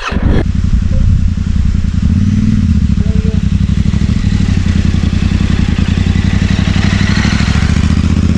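Yamaha Ténéré 700's parallel-twin engine running as the motorcycle moves off at low speed, a steady throb that starts about half a second in with a brief rise in revs about two seconds in.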